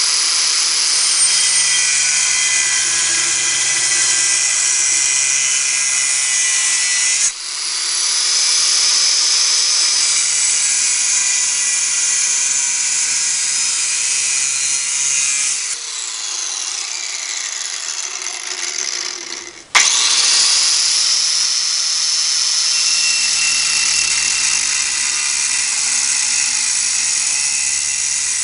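DeWalt power cutting tool running at high speed and cutting through steel EMT electrical conduit, a steady high whine. It stops and restarts briefly about seven seconds in, winds down with falling pitch around sixteen seconds, then starts up again sharply about twenty seconds in.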